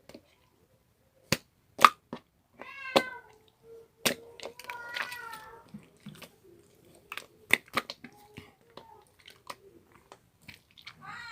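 A cat meowing a few times: a short call, then a longer one about five seconds in, and another starting near the end. Sharp clicks and knocks come in between, and the loudest of them is louder than the meows.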